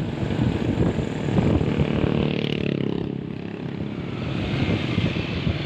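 Truck engine running steadily, dipping in loudness about three to four seconds in.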